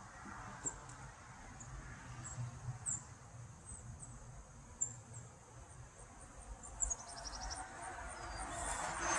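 Honeybees buzzing around an opened hive as a low, steady hum, with short high chirps scattered over it and a brief trill about seven seconds in.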